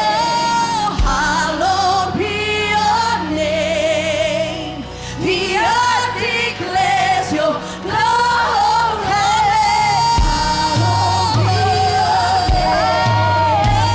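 Gospel-style worship music: a vocalist sings drawn-out, wavering melodic lines over band accompaniment, and a bass line comes in about ten seconds in.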